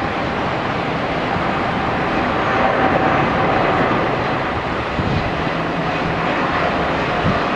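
Jet airliner's engines running, a steady loud rush of noise with a faint whine in it.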